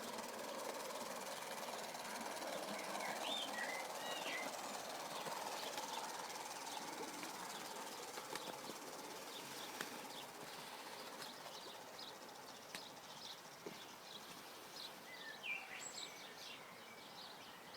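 Battery-powered garden-railway model of a Class 33 locomotive running, a steady hum that slowly fades as it moves away. Birds chirp twice, briefly, about three seconds in and again near the end.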